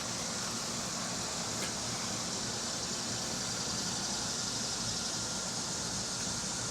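Steady, even background noise with no distinct sound events.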